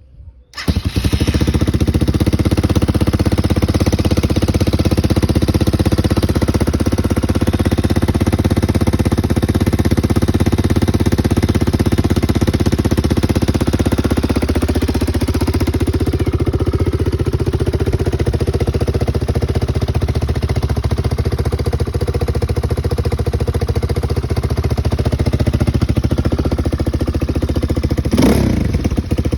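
RVM CZ 250 T motorcycle engine on a cold start: it catches about half a second in and settles into a steady idle, with a brief blip of the throttle near the end.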